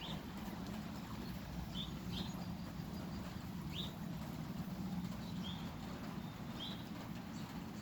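Steady rain falling, with a songbird giving short high chirps every second or two and a low steady hum underneath.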